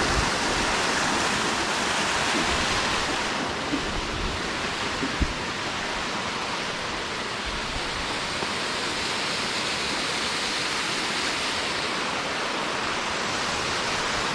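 Waterfall rushing steadily, with a few light knocks around the middle.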